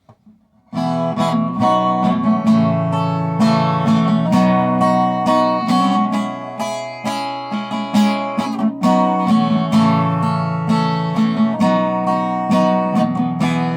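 Instrumental intro of a country song: acoustic guitar strumming chords, starting about a second in.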